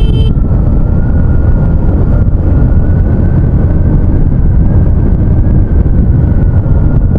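Suzuki Hayate EP's small single-cylinder four-stroke engine running steadily in fourth gear while the motorcycle is ridden, mixed with a heavy rumble of wind on the microphone.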